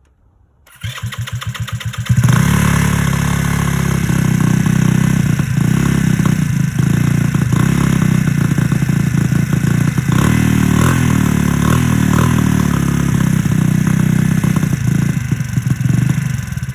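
GY6 150cc scooter's single-cylinder four-stroke engine being cranked over for about a second and a half, catching about two seconds in and running steadily on its freshly fitted carburetor, then cutting off at the end.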